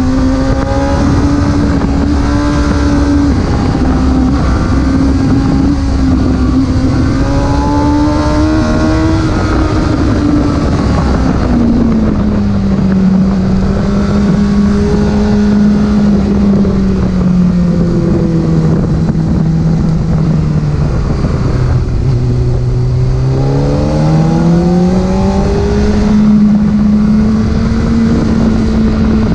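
Porsche engine running while the car is driven, its note rising and falling with the revs: a drop about 11 seconds in, sinking lower until about 22 seconds, then climbing back up, over steady road and wind noise.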